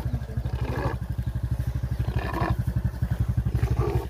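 Small motorcycle engine idling with a steady, fast putter.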